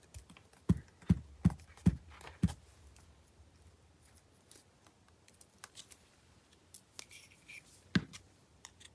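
Paper crafting on a worktable: a quick run of five sharp clicks about half a second apart, then quiet handling and one more sharp click near the end.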